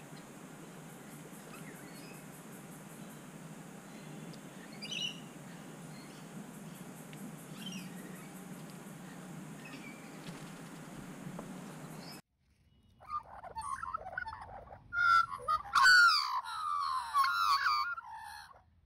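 Faint outdoor background with a few short, soft bird chirps. About twelve seconds in it cuts off abruptly, and several seconds of loud bird calls follow, wavering up and down in pitch.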